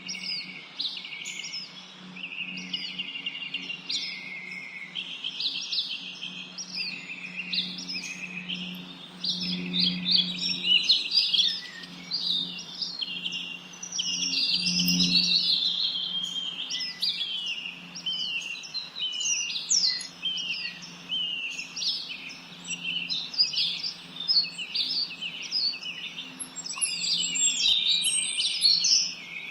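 A chorus of small songbirds chirping and singing, with many short calls and trills overlapping without a break. A steady low hum runs underneath.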